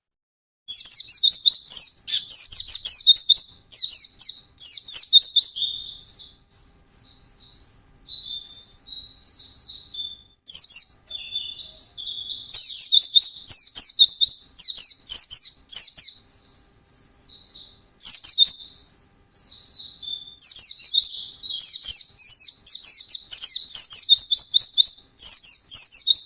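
A white-eye (pleci) singing a fast, high-pitched chattering song: quick runs of notes in phrases of a second or two, one after another with short pauses, quieter for a few seconds in the middle.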